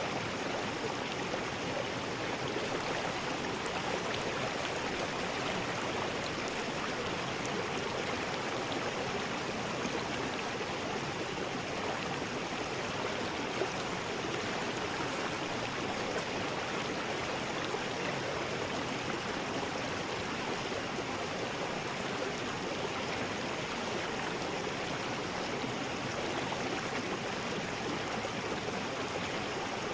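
River rapids: water rushing over rocks in a steady, unbroken rush.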